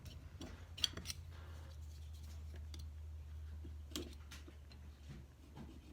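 A few faint, scattered clicks and light taps of small metal carburetor parts being handled on a work surface, over a low steady hum.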